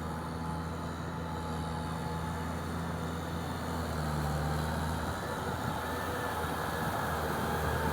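Tractor engine running steadily under a steady load, its note shifting slightly about four seconds in.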